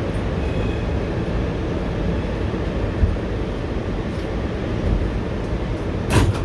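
Steady low rumble and noise inside an R211T New York City subway car, with a short, loud burst of noise about six seconds in.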